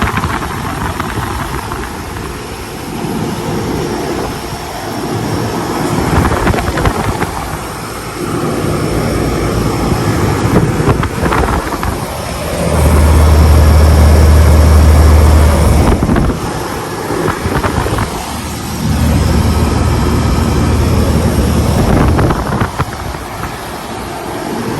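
A 1986 Carrier Round One central air conditioner's outdoor unit running, with a steady whirring rush from its fan moving a lot of air. The sound swells and fades, and twice a heavy low rumble comes in for about three seconds.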